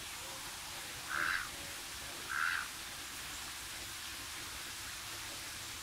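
Two short, rough bird calls about a second apart, over a steady hiss.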